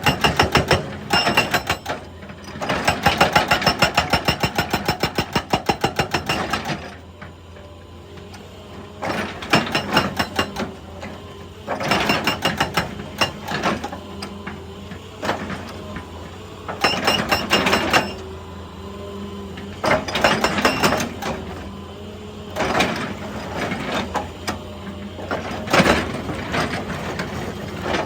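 Excavator-mounted hydraulic breaker hammering rock in bursts of rapid, evenly spaced strikes, the longest lasting about four seconds, with the excavator's engine running steadily between bursts.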